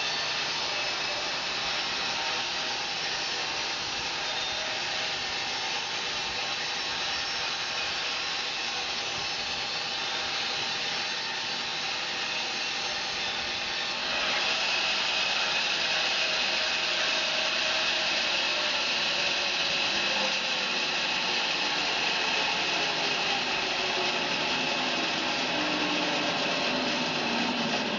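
Home-built bandsaw sawmill running, its band blade sawing through a fir log as a steady machine noise. About halfway through the sound turns louder and hissier, and a tone beneath it slowly falls in pitch.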